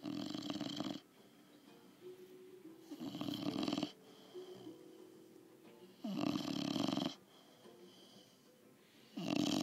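A sleeping dog snoring: four loud snores, each about a second long, coming roughly every three seconds, with quieter breathing between them.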